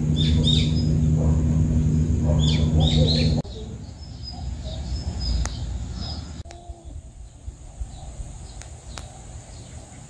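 Small birds chirping in short bursts over a steady low hum, which cuts off abruptly about a third of the way in. After that, quieter outdoor ambience with fainter chirps and a couple of sharp clicks.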